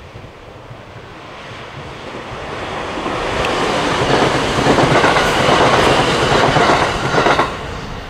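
Electric passenger train passing at speed, its wheels clattering over the rail joints. The sound swells as the train comes closer and drops away sharply as the last car goes by, about seven and a half seconds in.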